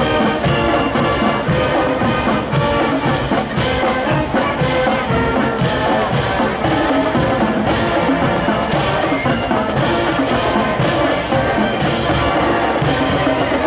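High school marching band playing: brass horns carry the tune over a steady marching drum beat.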